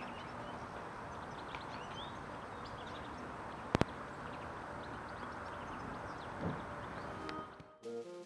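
Small songbirds calling, with many short high chirps over a steady background hiss, and a sharp double click about halfway through. Near the end the outdoor sound cuts off and background music starts.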